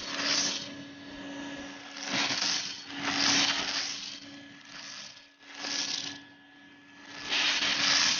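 Vacuum cleaner sucking up beads: a clattering rattle of beads through the hose in repeated surges, about one every second or so, over a steady motor hum.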